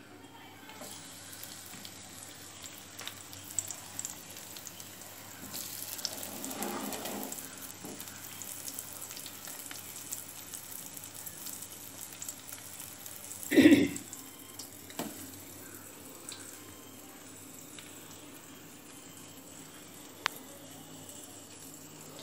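Potato slices coated in chilli masala frying in hot oil in a pan, a steady sizzle that swells for a second or so about six seconds in. A single short, loud knock comes about fourteen seconds in.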